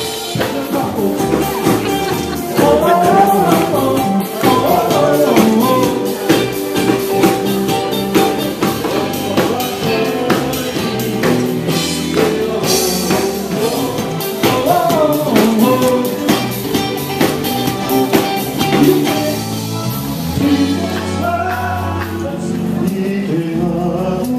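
Live band music with a singer's voice over a steady beat.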